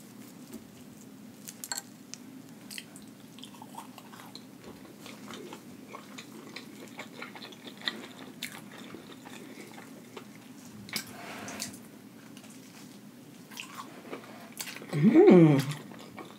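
Close-miked biting and chewing of crunchy fried food coated in crushed chips, with scattered small crunches and wet mouth clicks. Near the end comes one loud, short hummed 'mmm'.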